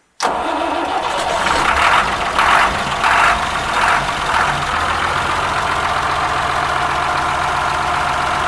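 Starter motor cranking an Ashok Leyland bus diesel engine, left standing for years, on a cold start attempt. It comes in suddenly, beats unevenly for the first few seconds as the engine tries to fire, then runs steadily until the starter is released.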